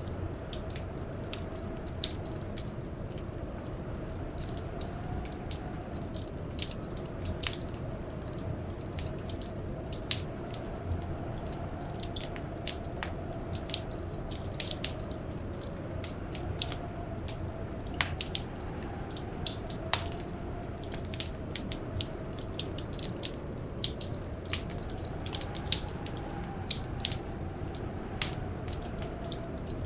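Wood fire crackling in a fireplace: irregular sharp snaps and pops over a steady low rush of flames. Under it, a faint blizzard wind howl that slowly rises and falls in pitch.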